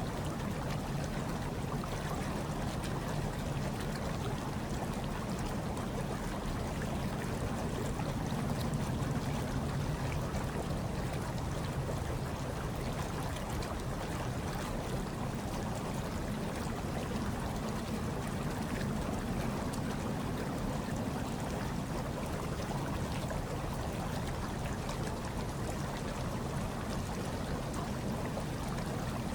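Hot tub water bubbling and churning in a steady, even wash, with a low rumble underneath and no breaks.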